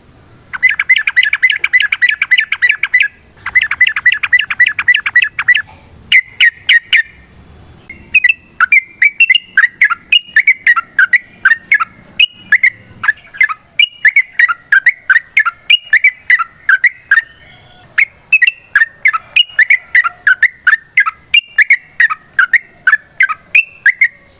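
Yellow-vented bulbul song: two fast, chattering trills of rapid notes in the first six seconds, then after a short break a long run of quick, bubbling chirps that bend up and down in pitch. This is the rapid, aggressive rolling song used to provoke other bulbuls.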